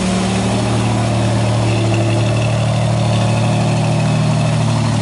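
1986 Pontiac Firebird's fuel-injected 2.8-litre V6 idling steadily soon after a cold start.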